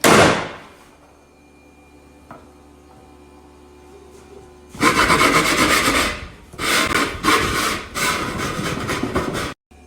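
A sudden loud clatter, then, after a few quiet seconds, harsh scraping in four long strokes with short breaks that stops abruptly.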